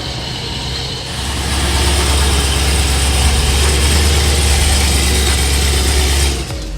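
A car's engine and exhaust running loud with a deep, steady rumble that swells about a second in and cuts off shortly before the end.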